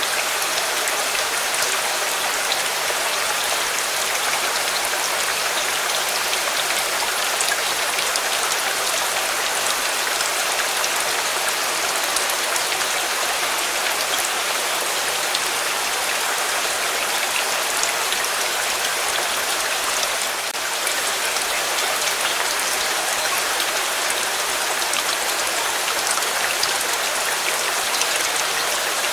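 Steady, heavy rain falling: an even hiss of countless drops with fine ticks of individual drops hitting a surface.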